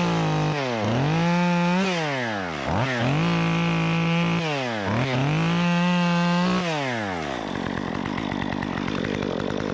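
Stihl MS 194T top-handle two-stroke chainsaw with a 1/4" ripsaw chain conversion, throttled up to full speed four times and held for a second or so each time while cutting, dropping between bursts. The engine note falls away about seven seconds in.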